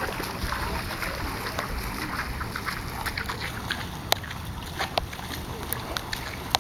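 Floodwater sloshing and splashing, with a steady rushing background and scattered sharp taps and splats.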